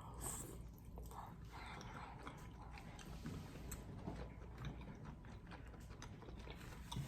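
Faint chewing and biting of king crab, with a few small clicks scattered through.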